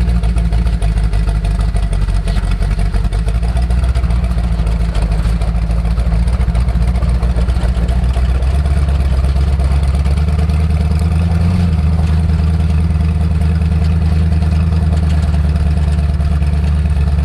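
Twin-turbo 440 V8 of a rat-rodded 1924 Dodge running with a deep, steady low rumble; its note shifts about eight seconds in.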